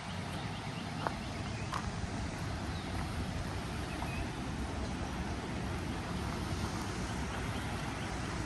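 Small waterfall rushing, a steady hiss of falling water like rain, with low wind rumble on the microphone.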